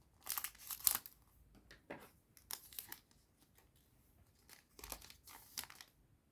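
Foil booster pack wrapper being torn open and crinkled by hand, in a few short spells of crackling and rustling.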